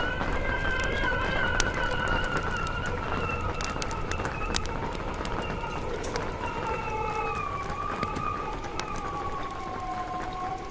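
Wind howling in long whistling tones that drift and slowly fall, over a low rumble, with scattered sharp taps of raindrops on a tent.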